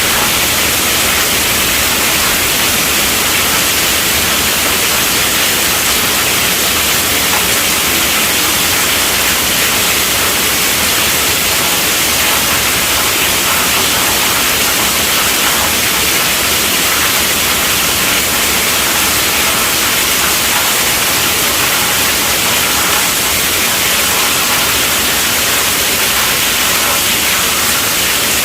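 Steady, even rainfall: a dense unbroken hiss of rain, mostly high-pitched.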